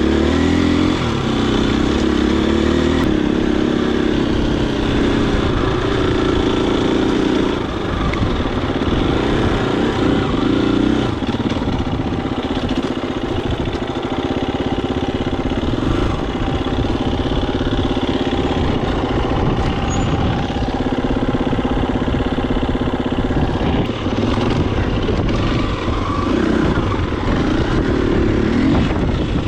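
Husqvarna FE250 dirt bike's single-cylinder four-stroke engine running while riding, its revs rising and falling repeatedly with the throttle.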